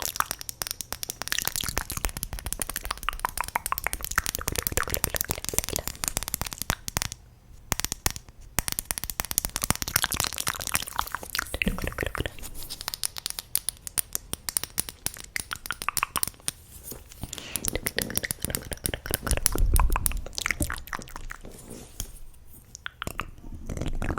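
ASMR mouth sounds close to the microphone: a rapid run of wet clicks and smacks, with a short pause about seven seconds in.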